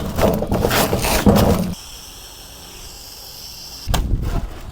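Rough scraping and rustling noise for almost two seconds, then a quieter stretch with a steady high insect-like drone, then scraping again near the end.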